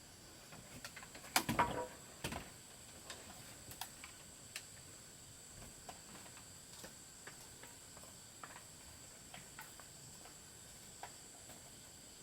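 Faint, scattered light clicks and knocks, with one louder knock and a brief rattle about a second and a half in, over a steady high-pitched hum.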